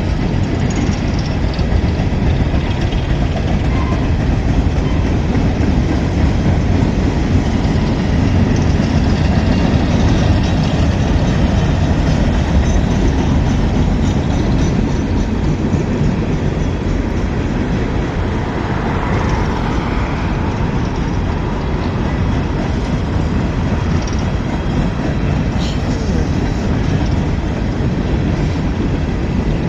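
A long train rolling past at close range: a steady, loud rumble and rattle of its cars going by.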